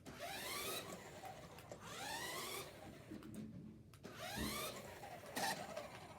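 Small electric motor of a toy RC car whirring up in rising-pitched bursts as the throttle is blipped, three times, about every two seconds.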